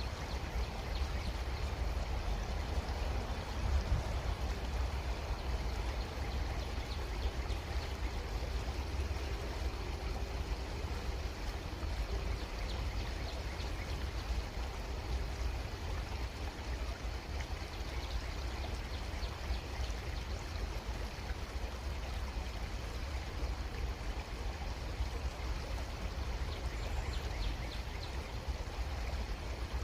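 Creek water flowing steadily in a continuous even rush, with a strong low rumble underneath and faint small ticks on top.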